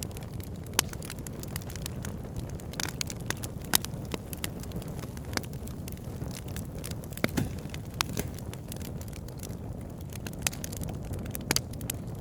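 Campfire burning with irregular sharp crackles and pops over a steady low rumble; the loudest pops come about one, four, seven and eleven seconds in.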